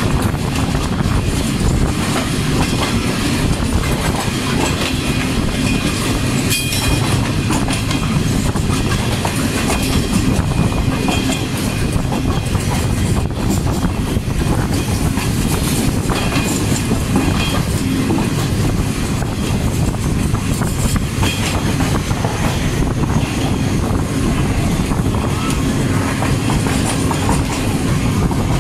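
Passenger train running along the track, heard from an open doorway of its coach: a loud, steady rumble of the wheels on the rails with the rush of passing air.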